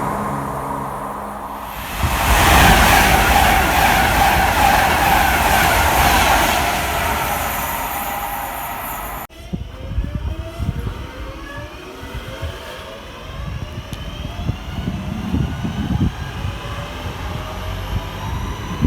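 A train passing at speed, a loud rush of rail noise with tones falling in pitch as it goes by. About nine seconds in the sound cuts off abruptly to a quieter, uneven rumble.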